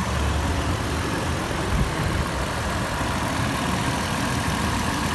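2021 Toyota 4Runner's 4.0-litre V6 idling steadily with the hood open.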